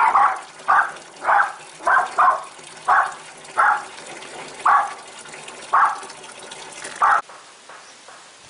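A dog barking about ten times in short, separate barks, over a steady rush of water that stops abruptly about seven seconds in.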